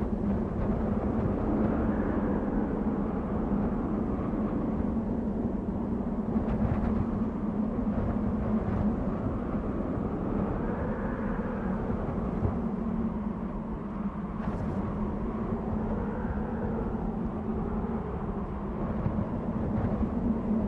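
Desert wind blowing steadily, with a whistle in the gusts that rises and falls every few seconds over a low steady rush.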